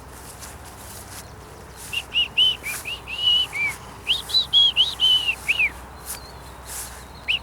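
Clear whistled notes, high and pure, in two quick runs of short arching notes through the middle, the last one falling, and a few more near the end.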